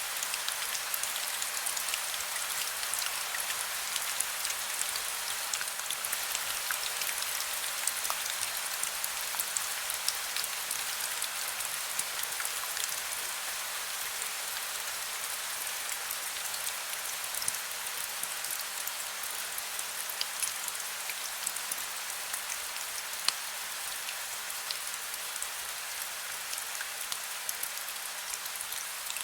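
Steady heavy rain, a dense hiss of many small drop ticks on a surface, with no thunder in this stretch.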